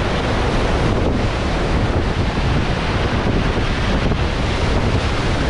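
Loud, steady rush of churning whitewater in a river rapid, heard from a raft, with low wind rumble on the microphone.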